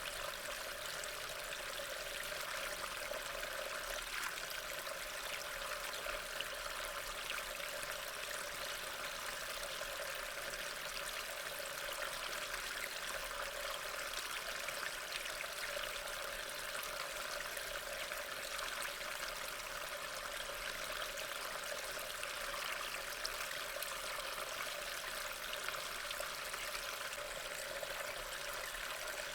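Steady rain falling: an even, unbroken hiss of water with faint scattered drop ticks.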